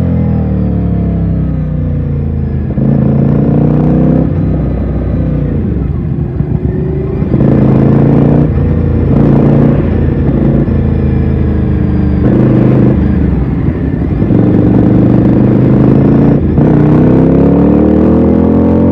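Ducati Scrambler's air-cooled L-twin engine under way, heard from the rider's position. The engine pitch drops at first, then rises and falls again and again as the throttle opens and closes and the gears change, with loud surges every few seconds. It climbs steadily once more near the end, with wind noise throughout.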